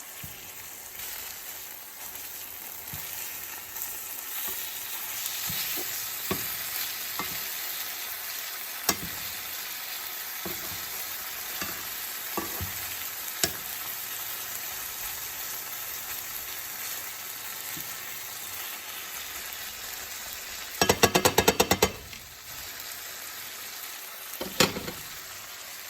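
Chicken cutlets sizzling steadily in hot oil in a skillet, with a few sharp clicks of a utensil against the pan. Near the end comes a brief, fast rattle, the loudest sound here.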